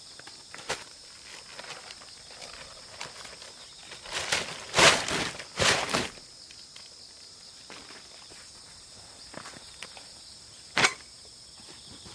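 A few rustling, crunching noises, with two loud ones close together midway and a sharp knock near the end, over a steady high-pitched chirring of insects.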